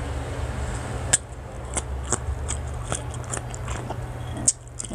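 Crunching and chewing of crisp, unripe green mango slices close to the microphone: irregular sharp crunches, with a louder crack a little after a second in and another near the end.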